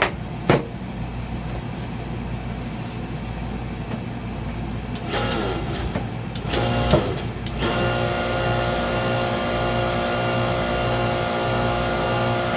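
A few sharp clicks and knocks, then about eight seconds in a hydraulic power unit's electric motor and pump start and run steadily, pushing the bead breaker's cylinder out.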